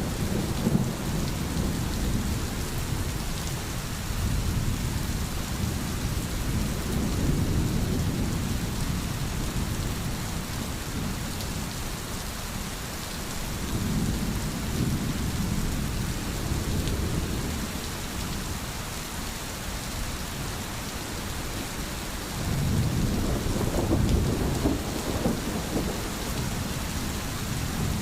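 Steady rain with low rolling thunder that swells and fades several times.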